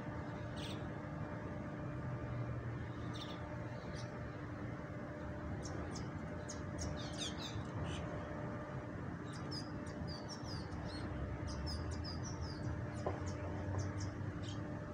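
Small birds chirping in short, scattered high calls, coming in quick runs in the middle and later part, over a steady low hum of the city at dawn.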